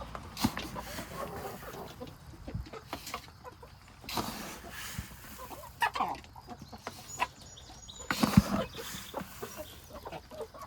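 Laying hens clucking, mixed with rustling, scraping and knocks of poultry feed being scooped, with longer rustling stretches about four and eight seconds in.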